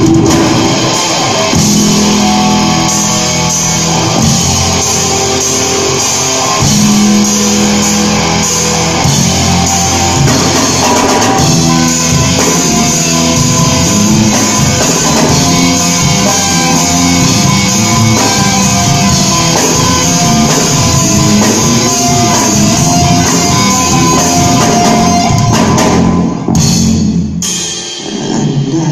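Live rock band playing an instrumental break: a melodic guitar line over bass and drum kit, with a short drop-out a couple of seconds before the end.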